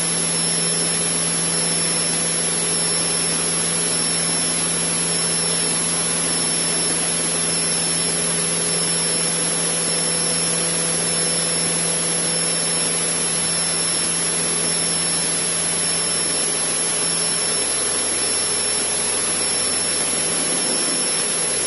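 Cessna 152's four-cylinder Lycoming engine and propeller running steadily at climb power, heard as a constant cabin drone with a thin high whine over it.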